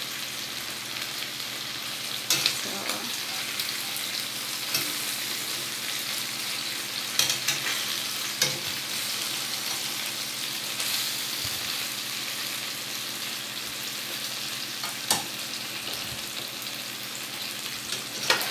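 Chicken pieces with tomato paste sizzling steadily as they fry in oil in a metal pot, with a few sharp clicks now and then.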